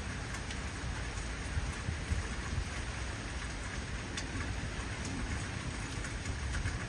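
Heavy rain falling steadily, with scattered individual drops ticking sharply, over a low rumble of thunder.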